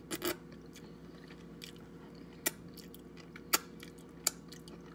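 A person chewing and biting crab legs in butter sauce close to the microphone, with about five sharp, short clicks spread through the eating.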